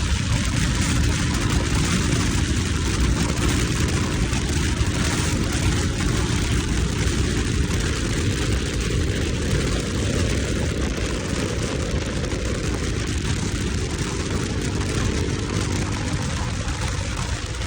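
Motorcycle being ridden at steady speed: its engine runs under a dense rush of wind noise on the microphone.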